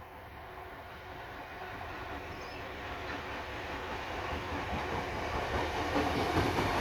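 Freight train hauled by RL class diesel-electric locomotives approaching, its engine rumble and wheel noise on the rails growing steadily louder.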